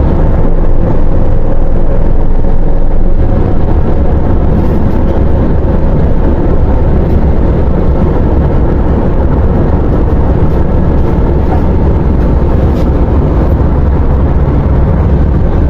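MAZ 104.021 city bus driving, heard from on board: a loud, steady low engine and road rumble.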